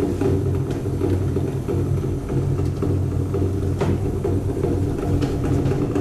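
A steady low rumble, like a running engine, with a few faint clicks.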